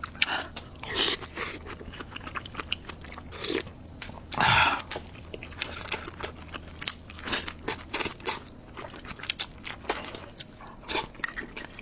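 Close-miked eating: a person biting and chewing food, with many short crunching and clicking mouth sounds. A longer, louder noise comes about four and a half seconds in.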